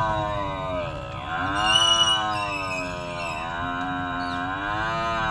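A buffalo lowing: one long, drawn-out moo that dips in pitch twice and carries on unbroken.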